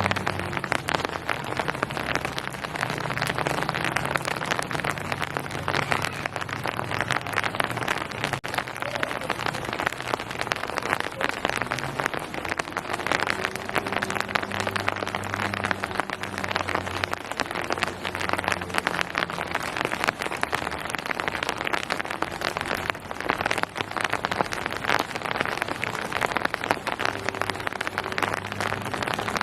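Steady rain falling, a dense, even patter of many separate drops striking surfaces.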